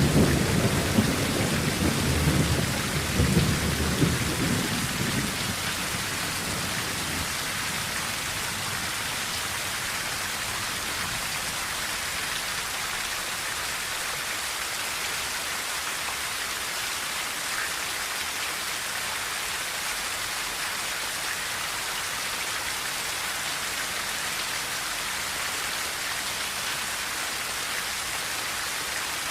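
Heavy rain falling steadily on a tin roof. A low roll of thunder rumbles under it at the start and dies away over the first several seconds, leaving only the even patter of rain.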